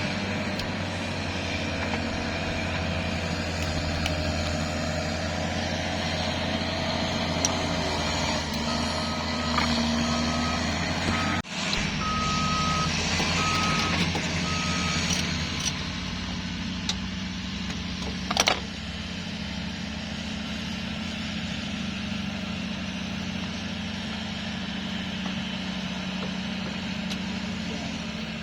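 A heavy vehicle's engine runs steadily. Partway through, a vehicle reversing alarm sounds about seven beeps, roughly one a second, and a sharp click comes a few seconds later.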